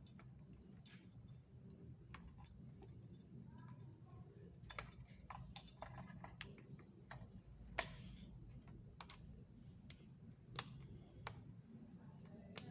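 Scattered light clicks and taps of small parts being handled and fitted while a copier's fixing unit is reassembled, with one sharper click a little past the middle.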